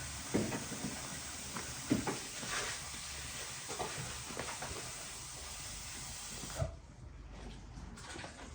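Steady sizzling hiss of food frying in a hot pan, with a few light knocks and clicks. It starts abruptly and cuts off near the end.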